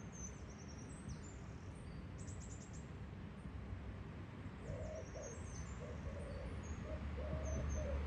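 Small songbirds chirping, with short high calls and a quick trill in the first half. A lower call repeats several times from about the middle onward, over a steady low rumble.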